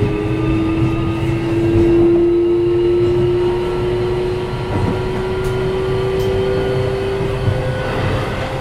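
Keio 7000-series electric train heard from inside the passenger car: a steady running rumble with a motor whine that climbs slowly in pitch as the train gathers speed.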